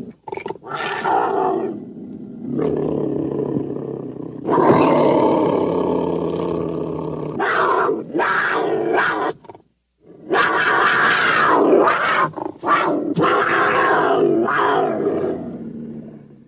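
Digitally edited hamster sound effects: a string of roar-like animal calls with short breaks between them, the last one running about six seconds.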